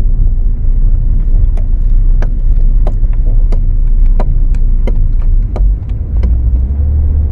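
Cabin noise of a 2012 Ford Focus on the move: a steady low road rumble with a dozen or so sharp, irregular creaks from the chassis. This is the creaking the owner complains of, which another shop put down to the shock absorbers and which the mechanic doubts is the shock absorbers.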